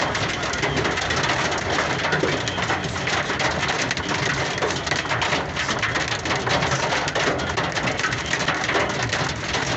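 Hail and heavy rain drumming steadily on a truck cab, heard from inside: a dense, continuous clatter of many small impacts.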